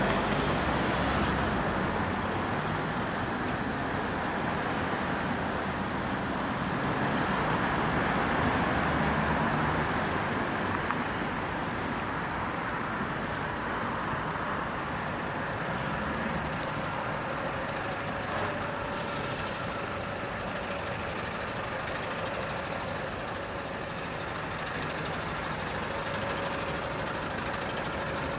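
Road traffic passing on a city street: a steady wash of engine and tyre noise from cars and heavier vehicles, loudest in the first ten seconds.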